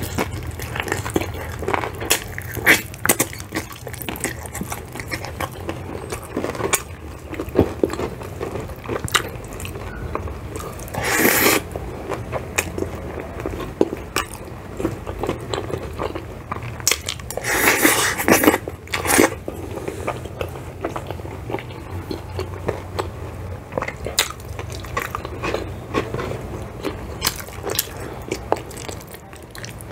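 Close-miked eating of crispy fried chicken and rice: chewing with many small crunches and mouth clicks. Two louder, longer stretches come about 11 and 18 seconds in.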